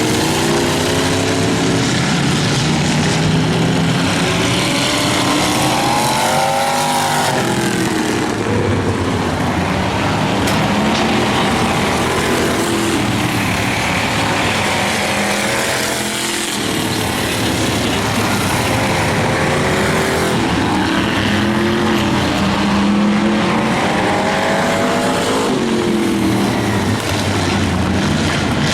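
Engines of demo race cars and trucks running hard around the track. Their pitch rises and falls as they rev and pass, with two close passes where it sweeps up and then drops.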